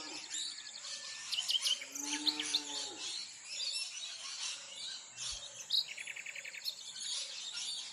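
Birds chirping and calling: scattered short high chirps, a rising-then-falling call about two seconds in, and a quick run of rapid notes about six seconds in.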